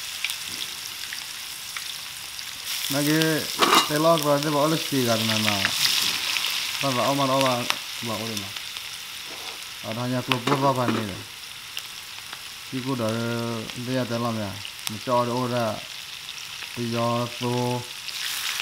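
Sliced onions sizzling steadily in hot oil in a pan. A man's voice is heard on and off over the frying.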